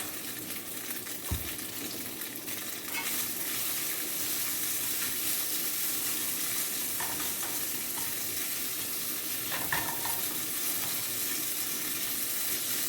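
Crumbled tofu frying in butter in a pan, sizzling steadily, a little louder from about three seconds in. Two brief knocks come about a second and a half in and again near the end.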